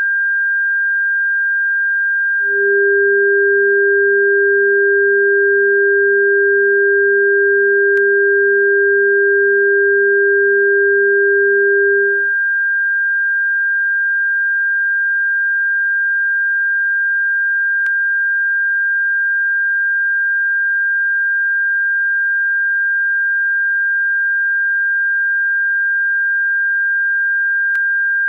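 Electronically generated pure tones sold as a bird repellent: a steady high-pitched tone throughout, joined by a lower steady tone from about two and a half seconds in until about twelve seconds in.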